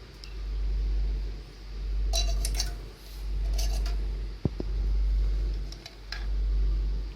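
Soda cans being handled, clinking and knocking together in two short clusters, with a few lighter clicks later. Under them runs a low rumble that swells and fades about once a second.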